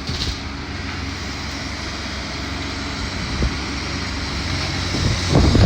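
Steady diesel engine hum of heavy demolition machinery, with wind rumbling on the phone's microphone that grows louder near the end.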